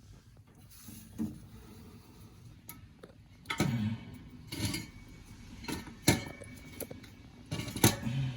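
Scattered metallic clinks, knocks and clatter of car parts and tools being handled, a few sharp hits standing out, the loudest near the end.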